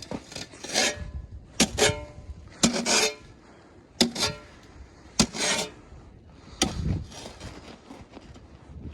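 Boots crunching and scraping into icy, crusted snow, one heavy step about every second as he climbs a slope.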